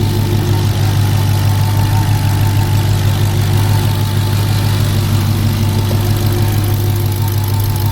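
Dodge Charger SRT Hellcat Redeye's supercharged 6.2-litre Hemi V8 idling steadily, with a faint steady whine above the deep idle note. The owner, listening for a Hemi tick, judges it fine.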